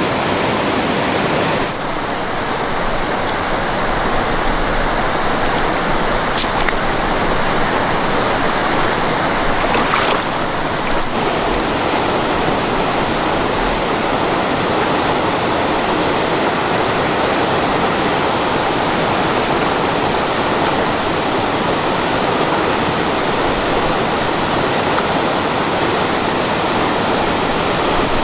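Mountain stream water rushing, a loud, steady rush with a slight dip about two seconds in.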